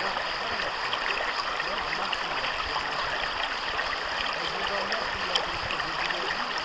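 Natural stream flowing steadily, water rushing and babbling over rocks.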